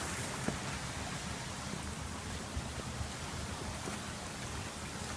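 Creek water running steadily in a even rushing hiss, with a few faint clicks.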